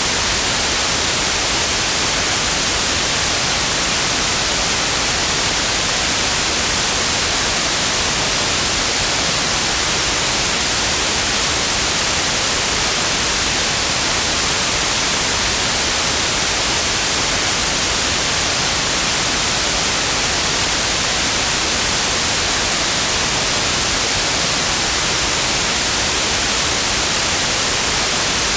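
Steady, unchanging white noise: an even hiss, bright and loud in the high frequencies, with no other sound.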